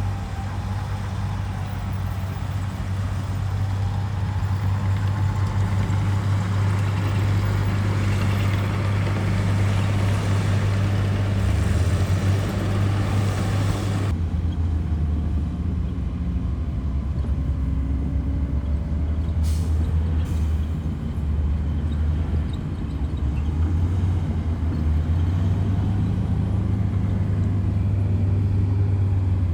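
Heavy diesel earthmoving machinery running steadily under load, a deep engine drone. A hissing, grinding noise over it stops abruptly about halfway through.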